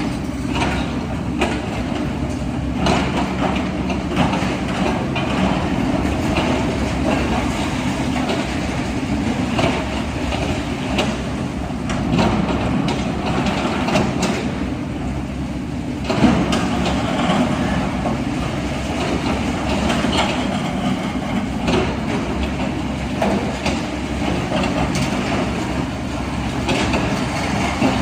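Diesel engine of heavy earthmoving machinery running steadily, with scattered clanks and knocks over it and a louder knock about sixteen seconds in.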